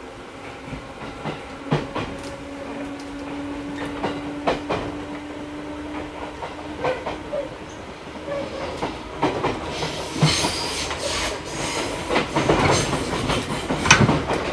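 JR 211 series electric train running, heard from inside its motor car: the DC traction motors hum steadily for about the first half, with wheel clicks over rail joints. The rail noise grows louder and rougher over the last few seconds.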